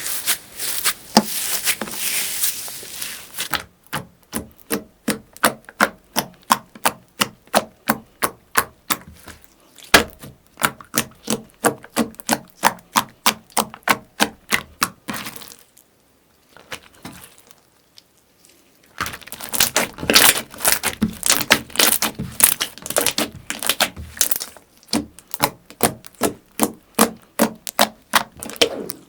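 Slime being pressed and squeezed by hand, giving runs of sharp popping clicks at about three a second, in between stretches of dense crackling. There is a brief quieter pause about halfway through.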